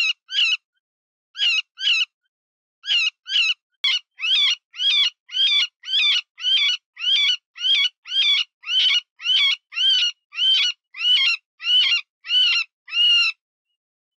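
Cottontail rabbit distress call used as a predator lure: short, shrill squeals of a rabbit in distress, coming in pairs at first, then about a second in quickening into a steady run of about two squeals a second that breaks off near the end.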